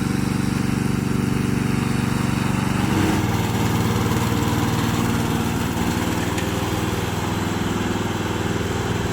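Loncin petrol engine of a remote-control lawn mower running steadily; its engine note shifts about three seconds in.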